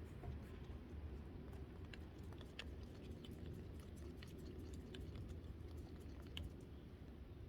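Faint, irregular small clicks and sticky, wet sounds from the purple glue slime mixture being worked in a bowl as more food colouring goes in, over a low steady hum.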